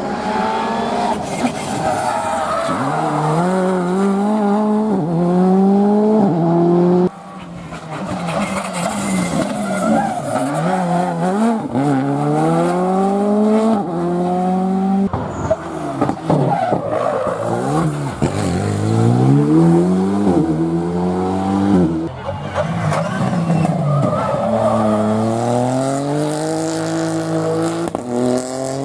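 Rally cars at full throttle on a stage, engines climbing in pitch and dropping back with each upshift, pass after pass, with some tyre squeal.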